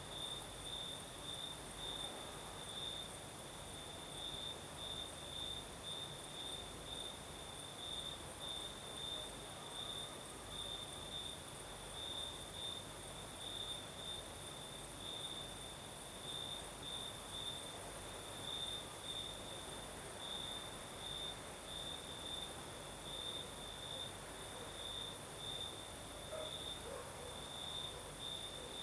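Crickets singing at night: one cricket chirps evenly about twice a second over a steady, higher-pitched trill.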